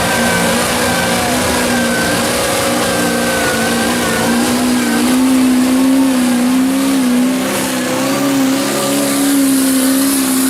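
Off-road vehicle engine held at high revs, its pitch wavering and climbing a little about halfway through.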